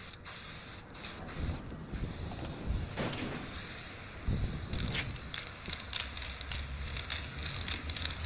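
Zinc galvanizing spray paint hissing out of an aerosol can: a few short bursts, then near-continuous spraying from about two seconds in, coating welds against rust.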